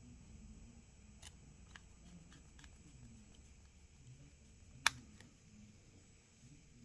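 Faint, scattered small clicks and taps of hand tools on a smartphone's internal parts during disassembly, with one sharp, louder click about five seconds in.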